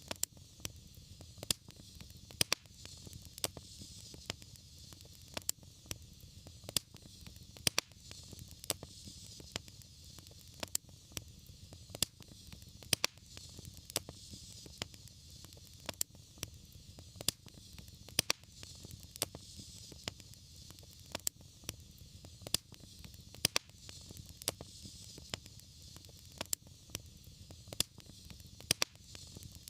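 Fire burning in a fireplace, crackling: frequent irregular sharp pops and snaps over a steady hiss and low rumble of the flames.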